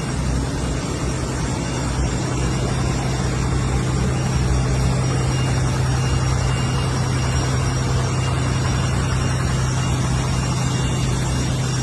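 An engine running steadily, a constant low hum with a haze of noise over it, like a vehicle idling.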